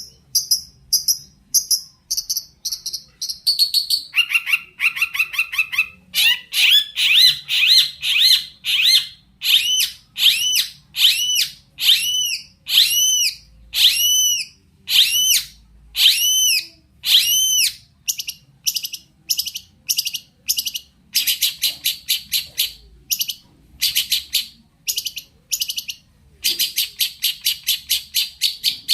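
Long-tailed shrike (cendet) singing a varied song full of mimicked phrases. It starts with runs of short high notes, moves to a series of arched whistled notes a little more than one a second, and ends with rapid, harsh, buzzy phrases.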